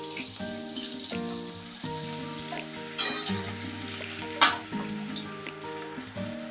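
Crushed garlic and chillies sizzling in hot oil in a kadai, with a steady frying hiss and a couple of sharp clicks of the stirring spoon against the pan. Soft background music with held notes runs underneath.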